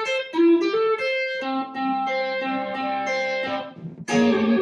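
Guitar closing out a rockabilly song: a quick run of single notes, then held notes, a brief break, and a loud chord struck near the end.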